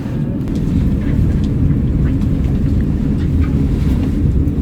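Steady low rumble of the MOB GoldenPass panoramic train, an electric metre-gauge train, running along the line, with a few faint clicks over it.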